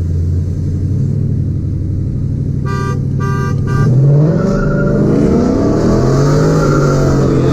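Car engine running with a steady low rumble. A car horn gives three short honks about three seconds in. Then the engine is revved, louder, with its pitch rising and wavering.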